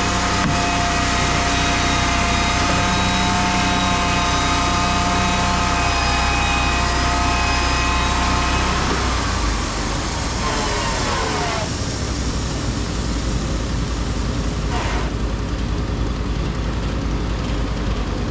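Band sawmill running with a steady pitched whine, which falls away in pitch about nine seconds in as the blade winds down, leaving an engine running on at a lower, steadier note.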